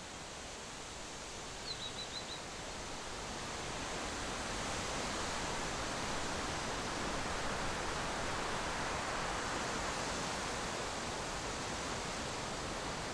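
Steady rushing noise that grows louder a few seconds in, with a quick run of four short, high chirps about two seconds in.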